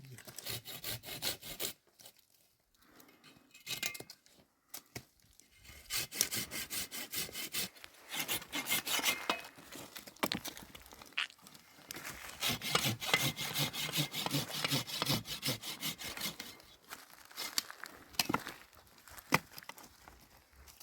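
Wood being sawn by hand in rhythmic back-and-forth strokes, in several runs with short pauses, then a few sharper knocks near the end.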